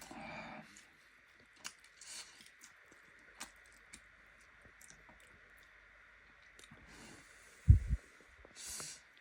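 Close-miked eating sounds of chicken curry with rice: scattered small wet chewing clicks and smacks with a few breaths. A single low thump comes about three quarters of the way through and is the loudest sound.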